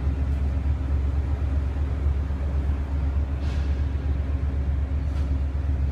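Steady low rumble with a faint even hum inside a sleeper train compartment, with a brief soft hiss about three and a half seconds in.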